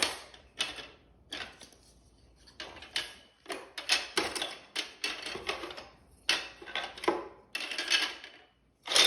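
Plastic GraviTrax marble-run pieces clattering and clicking against each other as hands rummage through a pile of parts. The clicks come in irregular clusters with short pauses.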